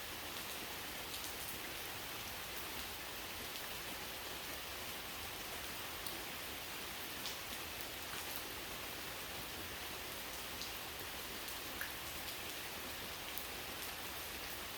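Steady rain falling, with scattered single drops standing out as faint ticks now and then.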